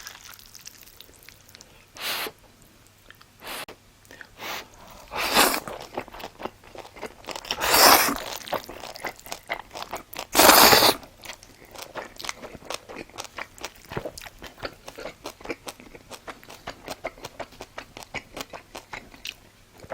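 Close-miked crunching as crisp food is bitten and chewed. A few loud crunches come in the first half, then a quick run of smaller crunching chews, about three or four a second.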